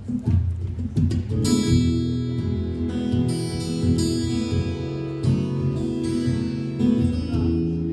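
Acoustic guitar playing a folk song's intro: a few low plucked notes, then strummed chords ringing from about a second and a half in.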